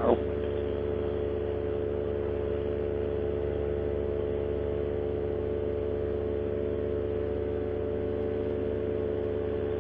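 Paramotor engine and propeller running steadily in flight, a constant drone that holds one pitch throughout. It runs smoothly on the freshly repaired and rebalanced propeller.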